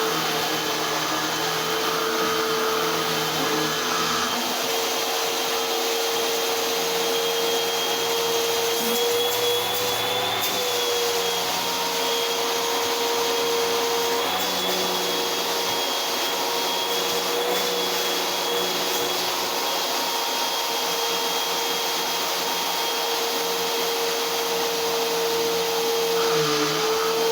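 Eureka AirSpeed Unlimited Pet vacuum cleaner running steadily: a constant motor hum and whine whose pitch wavers slightly now and then.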